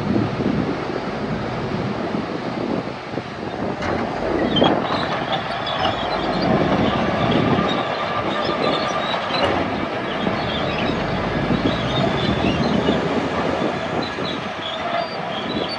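Crawler dozer working, its engine running under load while the steel tracks clank and squeal. A brief steady whine comes in about halfway through.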